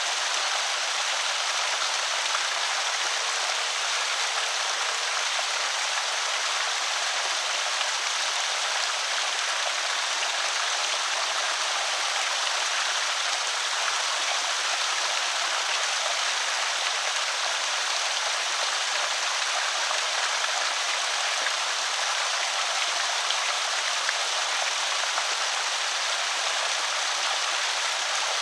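Creek water pouring over a small spillway, a steady, even splashing and trickling rush.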